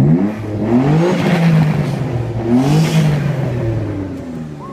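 Mitsubishi GTO's twin-turbo V6 revving hard through a free-flowing stainless exhaust, rising in pitch three times and then dropping back toward the end.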